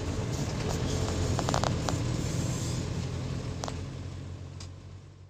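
Isuzu Panther Grand Royal's engine running steadily as the car is driven slowly, heard from inside the cabin, with a few light clicks. The sound fades out near the end.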